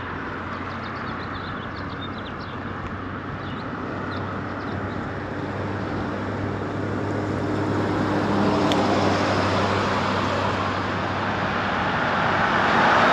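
Road traffic: motor vehicles passing close by on the road, the rushing noise swelling to a peak about nine seconds in and again near the end, with a low engine hum.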